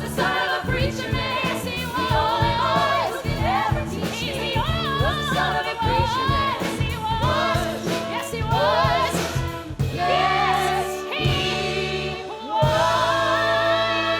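A group of singers performing a 1960s pop song with a live band and a steady beat. Near the end the music swells and the voices hold long notes.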